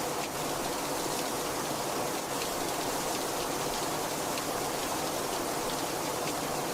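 Very heavy rain falling steadily, a dense even hiss with scattered drop ticks.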